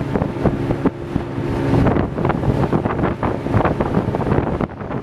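Wind buffeting the microphone over a boat's motor running steadily, with the sound of waves around the hull.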